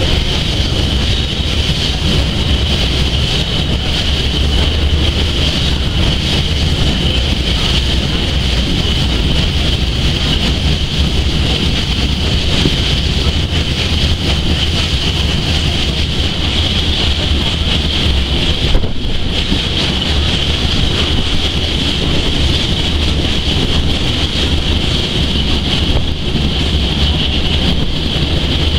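Steady running noise of a steam-hauled historic train rolling along the track, heard from a carriage window, with wind buffeting the microphone.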